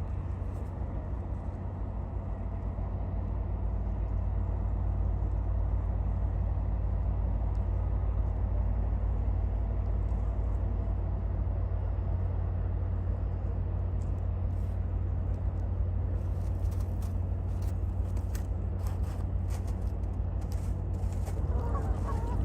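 Deep, steady rumble of ship engines from a bulk carrier and its tugboat passing close by, growing louder over the first few seconds and then holding level.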